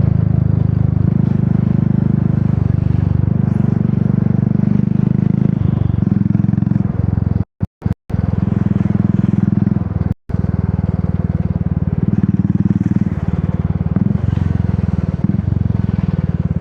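Royal Enfield Classic 350 single-cylinder engine running through a Dolphin aftermarket exhaust while riding, its note rising and falling with the throttle. The sound cuts out completely for a moment a few times around the middle.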